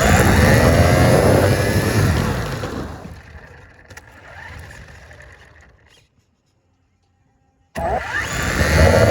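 Battery-powered R/C car's electric motor whining, its pitch rising and falling as the car drives, then fading as it moves away. The sound cuts out completely for about two seconds and comes back abruptly near the end.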